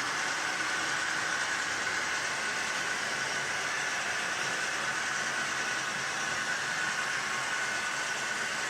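Model train running on a layout: a steady, even rushing noise with a faint high tone held throughout.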